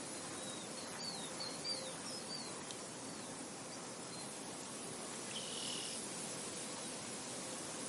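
Outdoor nature ambience: a steady hiss of wind and insects. A quick series of short, high bird chirps comes about one to two and a half seconds in, and another short call a little after five seconds.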